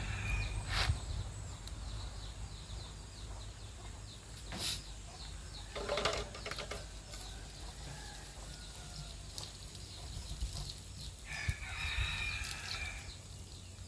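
Chickens in the background, with a rooster crowing once near the end, over a low steady hum. A few sharp knocks come earlier.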